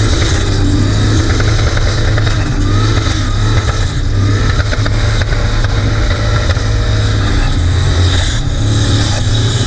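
Turbocharged LS V8 of a Holden Commodore held at high revs during a burnout, heard from on board, with the rear tyres spinning. It runs loud and steady throughout, the engine pitch rising and dipping a few times in the middle.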